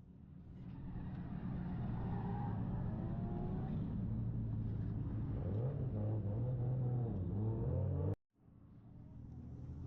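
Vehicle engine running steadily, its pitch rising and falling a few times in the second half. It cuts off abruptly near the end and then fades back in.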